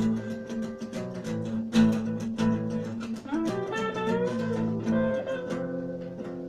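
Acoustic guitar music with strummed and plucked chords.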